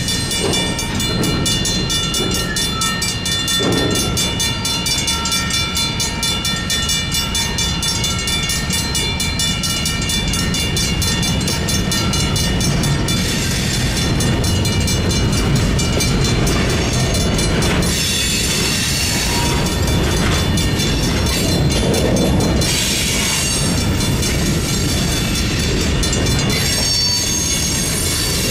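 Railroad crossing bell ringing steadily while diesel switching locomotives and cars roll through the crossing, with a continuous low rumble. Short hissing noises come several times in the second half.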